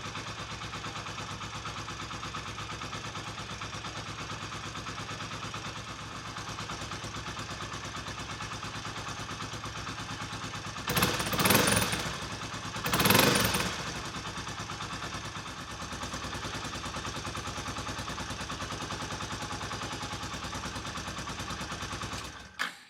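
Kawasaki Estrella's air-cooled single-cylinder four-stroke engine idling with an even, rapid pulse, revved up twice about halfway through before settling back to idle, then cutting off just before the end.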